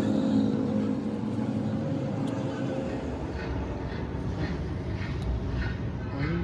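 Machinery running: a steady engine-like hum that fades out about halfway through, leaving a rougher mechanical noise with short intermittent knocks.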